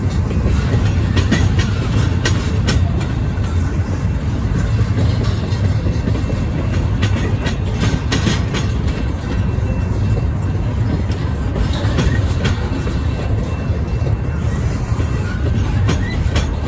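Double-stack intermodal freight cars rolling past: a steady low rumble of steel wheels on rail, with sharp clicks here and there, clustered a couple of seconds in and around the middle.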